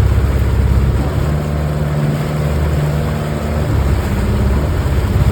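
Boat motor running, its pitch shifting for a couple of seconds in the middle before settling back.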